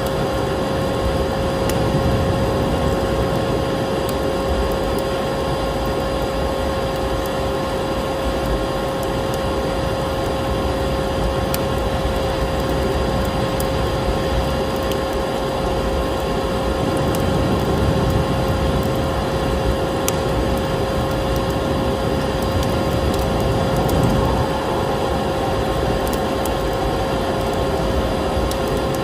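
Electric vacuum cleaner running steadily, a constant motor whine over a rushing air noise, layered with the light crackle and pops of a wood fire.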